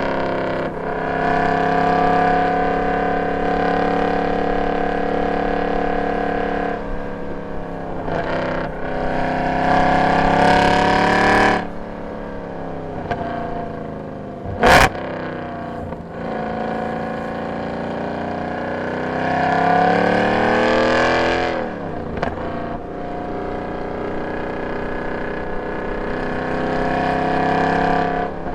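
Mercedes M156 6.2-litre V8 of a C63 AMG, running on long tube headers, an x-pipe and no catalytic converters, under hard acceleration. It climbs steadily in pitch, falls off sharply at about 11.5 s and again at about 21.5 s as it lifts off, then pulls again. A single sharp crack comes about 15 s in.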